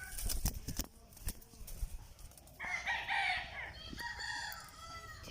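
Indian Ringneck parakeet giving a loud, harsh call about two and a half seconds in, followed by shorter gliding calls, after a few clicks and knocks in the first second.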